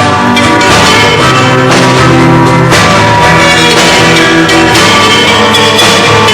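Rock band playing loudly through its amplifiers during a soundcheck, with bass, guitar and drums.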